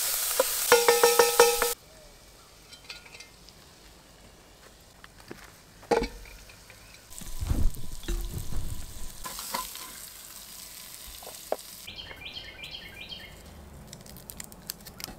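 Ground beef sizzling and frying in a pan as it is stirred. The sound cuts off suddenly about two seconds in, leaving faint scattered knocks and clicks and a brief low rumble around the middle.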